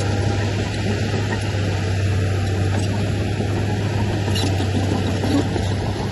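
Heavy earthmoving machine's diesel engine running steadily under load, a deep even drone.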